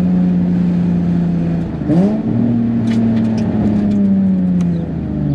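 Turbocharged Nissan 350Z's VQ35HR V6, heard from inside the cabin, running at a steady note. About two seconds in its pitch dips and quickly sweeps back up higher, then slowly falls away.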